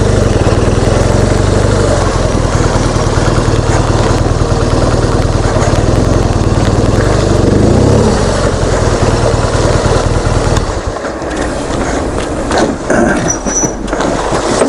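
BMW R1200GS boxer-twin engine idling steadily, then switched off about ten and a half seconds in. After it stops there are a few scattered handling noises and a short high beep.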